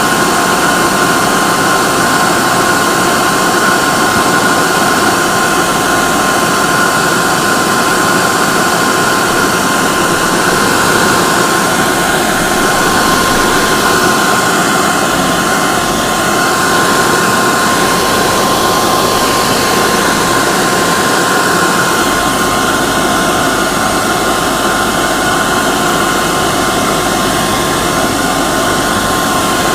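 Hair dryer running steadily: an even rush of air with a steady motor whine.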